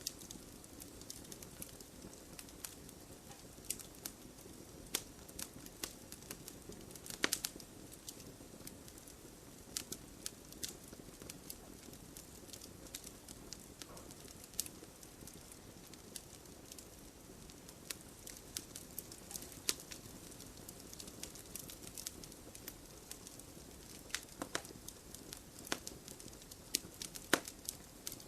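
Wood fire crackling: a soft low rumble of burning with irregular sharp pops and snaps, a few louder ones scattered through.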